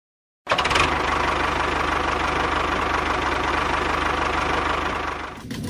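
A motor running steadily with a fast, even pulse. It starts abruptly about half a second in and drops off near the end.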